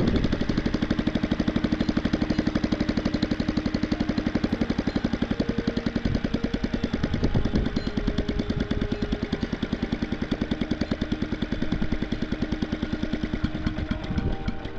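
ULTIMOTOR small air-cooled engine running at a low idle with a rapid, even beat of exhaust pulses, while its carburettor is being tuned.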